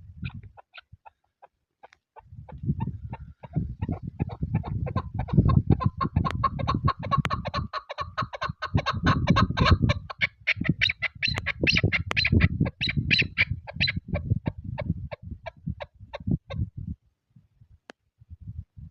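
Chukar partridge calling a long, fast series of repeated chuck notes, several a second, swelling in the middle and dying away near the end. Wind buffets the microphone with a low, gusting rumble underneath.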